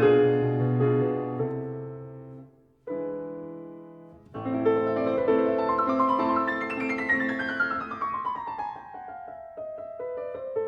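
Slow, gentle piano music. One phrase dies away, a chord sounds briefly in a short pause, and then a new phrase begins with a long descending run of notes.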